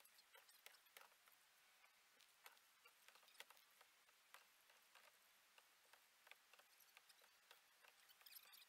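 Near silence, with faint, irregular small ticks and taps.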